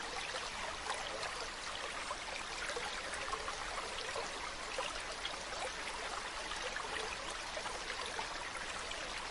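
Mountain stream running steadily over rocks, a continuous rushing babble full of small splashes.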